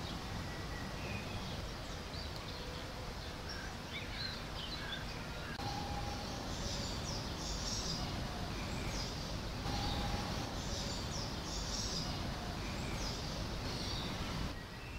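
Small birds chirping in short, repeated high phrases over a steady low outdoor rumble.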